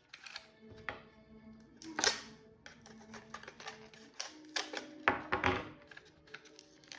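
Slot car's plastic case and packaging being handled: scattered clicks and taps, with a louder knock about two seconds in and a cluster of clicks around five seconds, over faint background music.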